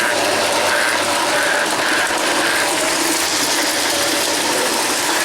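Toy train running on its track, a steady mechanical rattle of wheels and gear motor.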